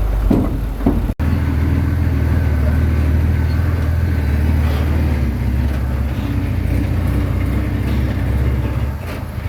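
Heavy diesel engine running steadily under load, with a few metallic clanks in the first second and a brief audio dropout about a second in.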